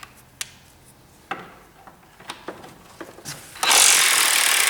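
Scattered metal clicks and knocks of tools working on front-suspension A-frame bolts. A little over three and a half seconds in, a power tool starts running steadily and loudly on the bolt's nut.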